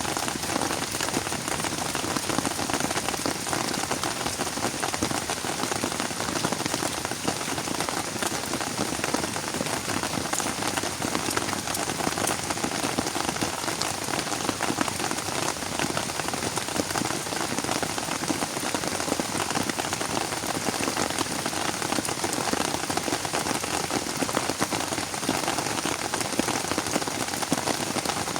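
Rain falling steadily, a dense patter of countless drops with no let-up.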